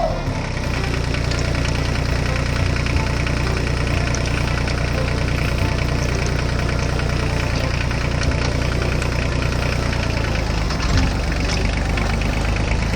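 Heavy engine idling steadily with a low, even, knocking rumble, the engine sound of a model construction vehicle.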